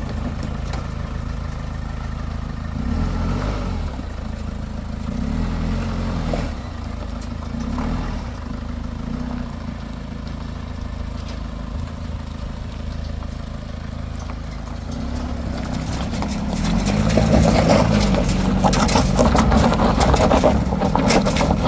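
A vehicle engine running steadily, growing louder and rougher in the last few seconds.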